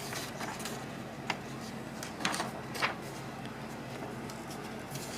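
Paper pages of an instruction booklet being handled and turned, a few brief rustles, the loudest a little after two seconds and near three seconds in, over a low steady hum.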